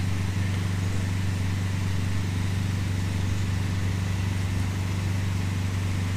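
A steady low hum from a running motor or machine, even and unchanging.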